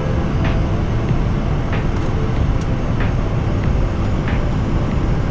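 Steady low rumble of airflow and engine noise in an Airbus A319 cockpit on final approach, with a few faint ticks now and then.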